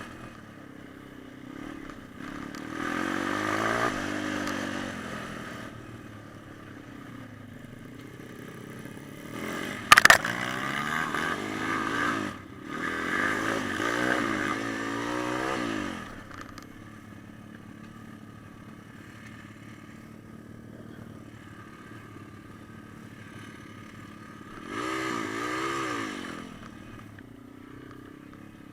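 Pit bike's small single-cylinder four-stroke engine running, revving up and down in repeated bursts between stretches of lower steady running. A single sharp bang about ten seconds in is the loudest moment.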